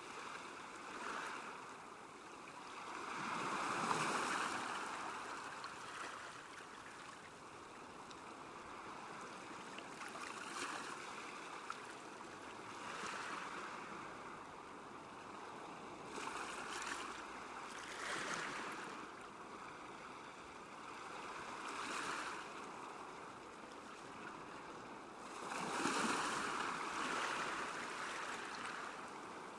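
Small waves lapping at a lakeshore: a soft wash of water that swells and fades every few seconds.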